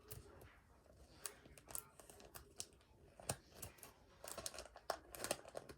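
Trading cards being worked into plastic card sleeves and holders, with irregular crinkles and sharp plastic clicks that come thickest near the end.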